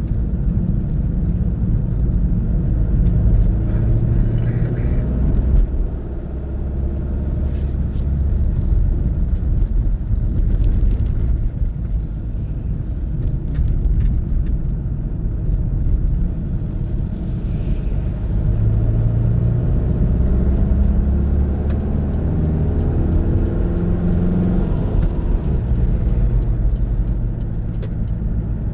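A car driving, with steady engine and road rumble. The engine note rises and falls as the car changes speed.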